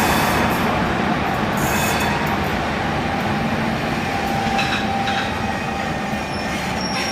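Loco-hauled diesel train moving through the station: steady running rumble, with thin high wheel squeals in the second half.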